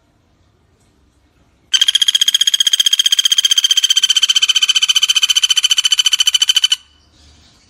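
Pelatuk bawang woodpecker calling: one rapid, even trill of about a dozen notes a second, starting nearly two seconds in and lasting about five seconds before stopping abruptly.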